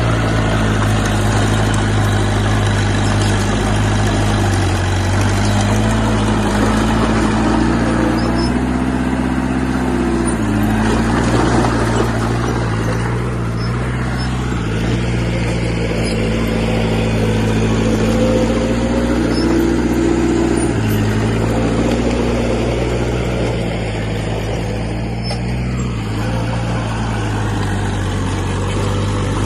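Heavy diesel engine of earthmoving equipment running steadily under load, its pitch shifting up and down several times as the machine works.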